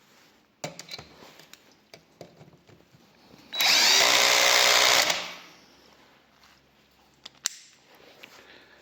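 Parkside PABS 20 Li G8 cordless drill driving a drywall screw at clutch setting 4, in one burst of about a second and a half beginning about three and a half seconds in. Light handling clicks come before it, and there is a sharp click near the end.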